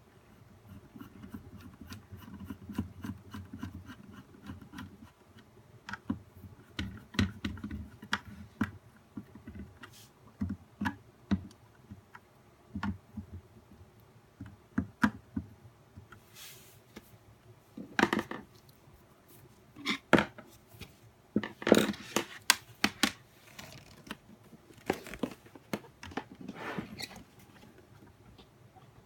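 Plastic housing and parts of a nail dust collector being handled, clicking, knocking and scraping against each other in an irregular run. A few louder knocks come in the middle of the run.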